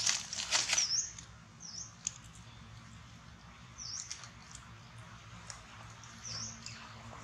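Short, high chirps from a small bird, each a quick dip-and-rise note, repeating every second or two over a faint steady low hum. A brief spell of rustling and scraping in the first second is the loudest sound.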